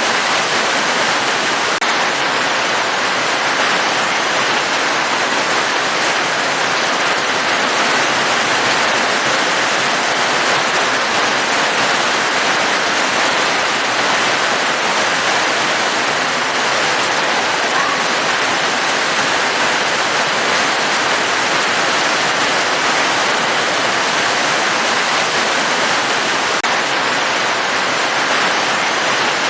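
Steady rain falling, an even unbroken hiss with no separate drops, thunder or music standing out.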